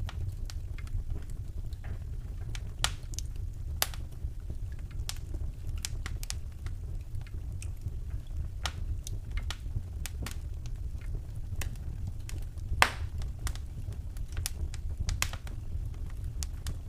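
Wood fire in a fireplace crackling: irregular sharp pops and snaps, one louder crack about thirteen seconds in, over a steady low rumble.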